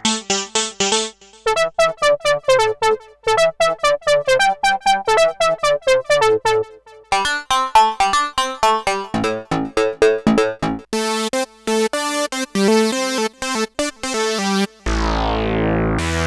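Sequential Prophet-5 Rev4 analog synthesizer playing a fast run of short, bright, plucked notes in repeating patterns. About fifteen seconds in, a different patch takes over: a sustained chord with deep bass and a treble filter sweep that closes downward.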